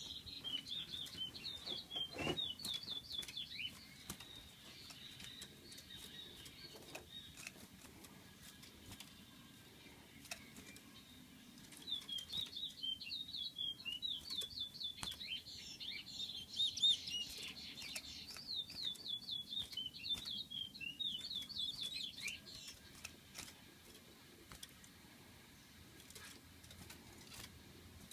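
A small songbird singing fast runs of high, quickly repeated chirping notes: one run in the first few seconds, then a longer one from about twelve seconds in to about twenty-two, with pauses in between.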